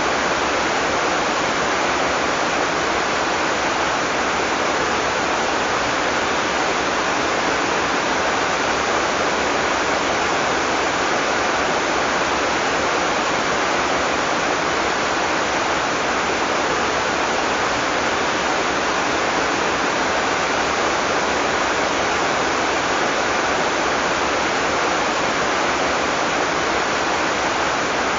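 Heavy tropical rain falling steadily, a dense, even hiss with no thunder.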